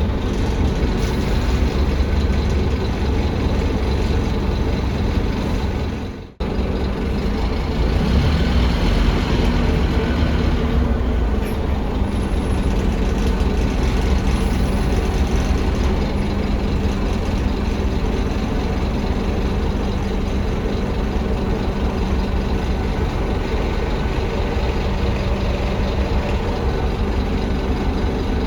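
Scania K310UA articulated bus heard from inside the cabin, its Scania DC9 five-cylinder diesel running steadily under a continuous low drone. The sound breaks off briefly about six seconds in.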